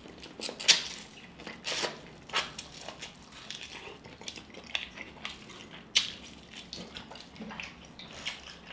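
Close-up eating sounds of a mouthful of sauce-coated corn on the cob being chewed: irregular wet smacks and clicks, a few at a time.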